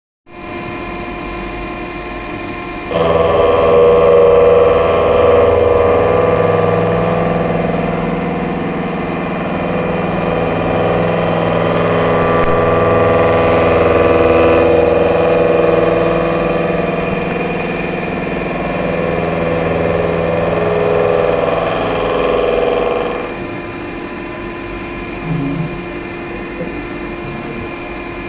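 A 90° shoulder milling cutter with indexable inserts machines C45 carbon steel on a horizontal machining center. The machine runs with a steady hum. About three seconds in, the cutter enters the work and a much louder cutting sound with several steady tones sets in. It lasts about twenty seconds and drops back to the machine hum, followed by a brief knock.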